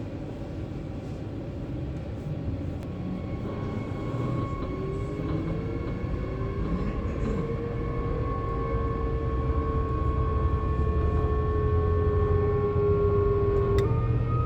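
Siemens Desiro HC electric multiple unit's traction drive whining under a low running rumble that grows steadily louder as the train pulls away. Several tones glide and shift in pitch. Near the end a click comes as they jump to a new pitch and start to climb.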